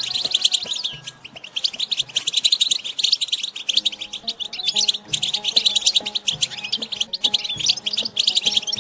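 Wild European goldfinches giving their chattering 'batbata' song, a dense fast stream of high twittering notes, over soft background music.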